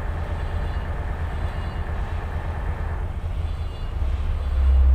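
Tugboat's diesel engine running with a low rumble, growing louder and steadier about four and a half seconds in as it takes more throttle.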